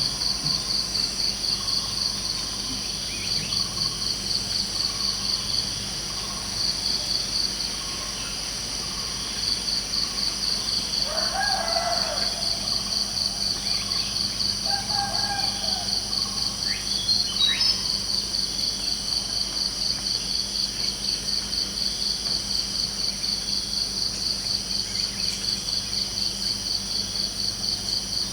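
Crickets chirping in a steady, evenly pulsing high trill, with a few short bird calls about eleven, fifteen and seventeen seconds in.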